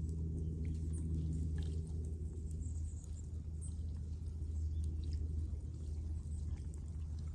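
Wood fire burning in a fire pit, with faint, scattered crackles over a steady low rumble.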